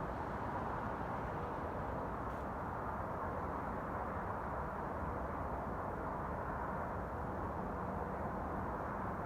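Steady low mechanical rumble with a faint hum in it, holding at one level without a break; this is the loud, unexplained drone that seems to come from overhead.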